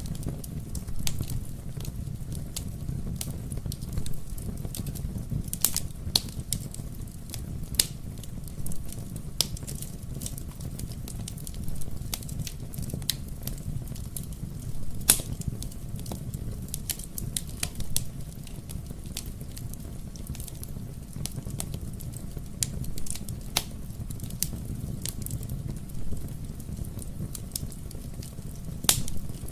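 Wood fire burning in a fireplace: a steady low rumble of the flames with irregular crackles and pops, a few of them sharper and louder.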